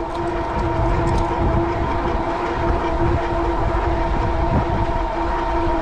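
Fat-tire e-bike riding along at speed: a steady whine from its 750-watt Bafang rear hub motor, with wind buffeting the microphone in an uneven low rumble.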